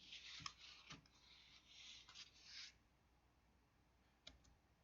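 Near silence: a faint hiss for the first half, with a few soft clicks.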